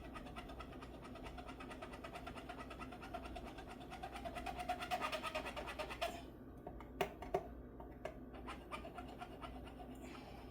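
Rapid, even scraping of a guitar fret end being dressed down near the high E string, taking off a rough edge. It grows louder, then stops about six seconds in, and a few light clicks follow.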